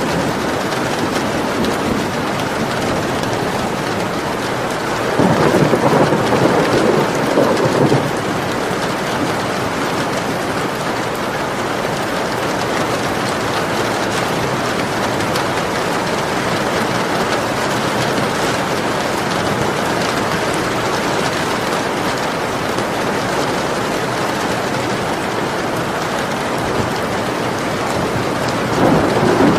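Steady heavy rain hissing, with a louder rumble of thunder swelling up about five seconds in and lasting about three seconds, and another rumble starting near the end.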